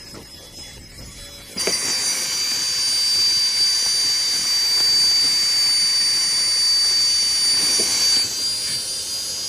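Small electric air pump switching on about one and a half seconds in and running with a loud, steady high whine and hiss as it inflates an air mattress; its pitch steps up slightly near the end.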